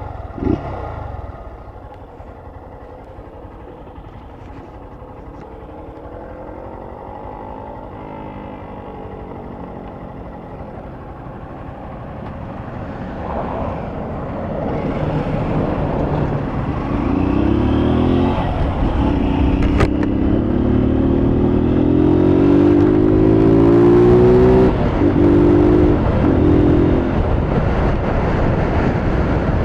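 Motorcycle engine noise growing steadily louder. From about halfway in, engine notes climb in pitch as it revs, breaking off and resuming a few times near the end.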